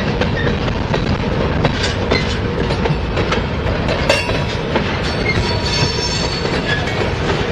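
Freight cars rolling past: a steady rumble of steel wheels on rail with scattered clicks over the joints and a sharp clank about four seconds in. A faint high wheel squeal comes in between about five and seven seconds.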